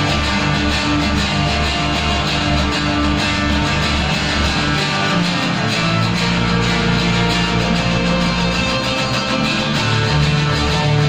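Band music with guitars over sustained bass notes and a steady beat, with no singing.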